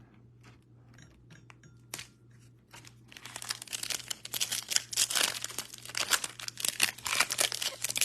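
A few light clicks and taps, then from about three seconds in, plastic wrapping being torn and crinkled in continuous loud crackling as a trading-card blaster box and its pack wrapper are opened.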